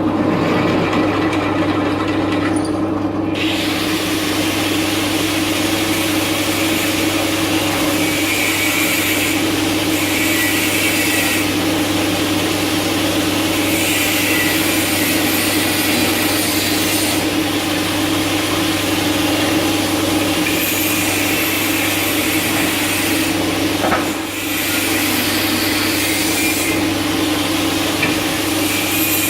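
Power drill motor running with a steady hum. From about three seconds in, a drill bit scrapes as it cuts, enlarging the bore of a metal bearing spacer with the next size up of bit. The cutting breaks off briefly about three-quarters of the way through.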